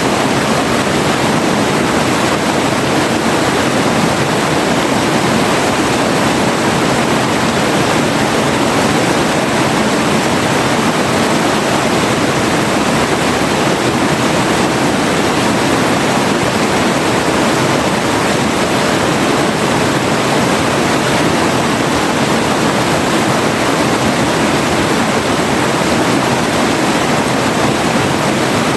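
River water flowing and rushing over rocks in a steady, loud, even rush with no change.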